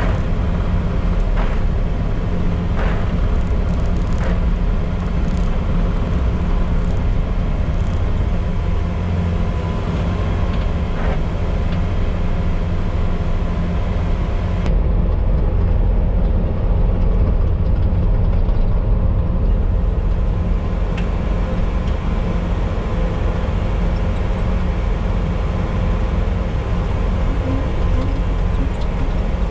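Bobcat T595 skid-steer loader running steadily while working with an SB200 snowblower attachment: a continuous low diesel engine drone, with a few light clicks and knocks in the first half.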